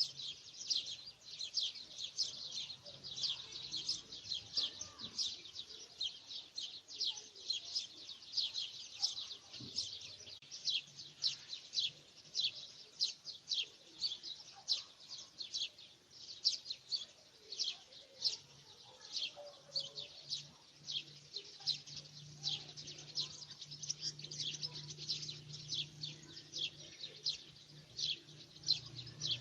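Birds chirping: a dense, unbroken run of short, high chirps, several a second.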